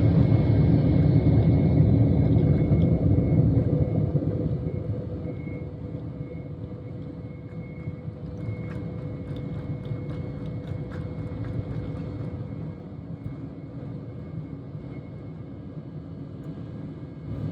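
Jet airliner taking off, heard from inside the cabin: a loud rumble of engines and runway roll for about four seconds, then a quieter steady engine drone with a faint steady whine.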